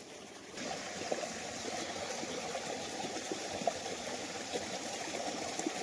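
Water of a small waterfall running and splashing steadily, with small scattered drips; it comes in suddenly about half a second in.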